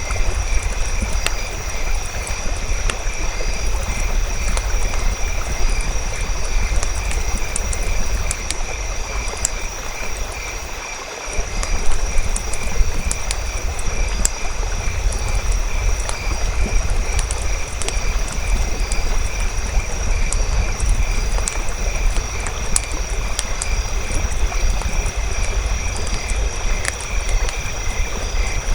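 Campfire crackling with irregular sharp pops over a low rumble, against a steady pulsing chorus of frogs and insects. The low rumble drops out briefly about eleven seconds in.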